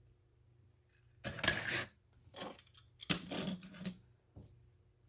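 A few short clattering knocks and scrapes of hard objects striking each other. There are four bursts: a longer one about a second in, a short one, another longer one about three seconds in, and a brief one near the end.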